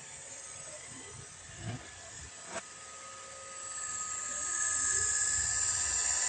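Roomba robot vacuum running: a steady motor whine over a high hiss, with two short knocks between about one and a half and two and a half seconds in. The hiss grows louder about four seconds in.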